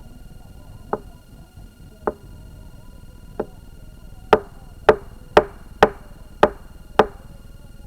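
Axe blows chopping wood: three lighter strikes about a second apart, then six harder ones in quicker succession, about two a second.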